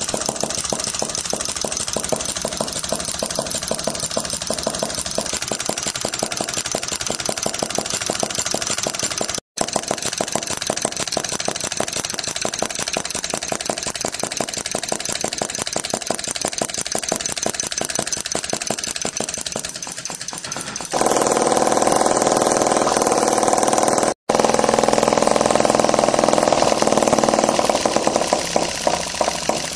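Classic 1S gas engine running, firing in a fast, even rhythm. The sound drops out briefly twice, and about two-thirds of the way through it becomes louder and fuller.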